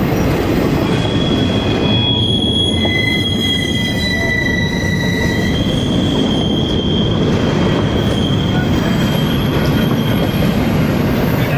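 Train rolling past with a steady, loud rumble and high-pitched wheel squeal, steel wheels screeching on the rail. The squeal holds steady tones from about a second in until about nine seconds.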